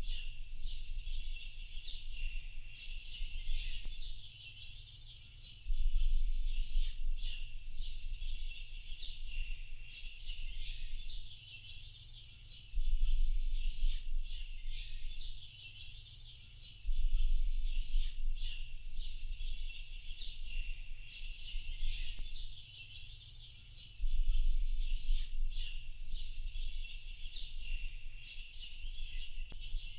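Many songbirds chirping and twittering together without a break. A low rumble swells up for a second or two about every five to seven seconds.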